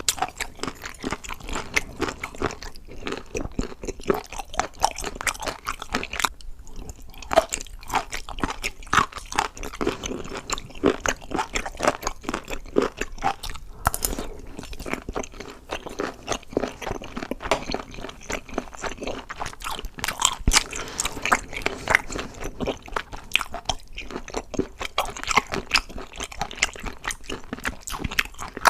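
Close-up crunchy chewing and biting of crisp food, a dense run of irregular crackling crunches without pause.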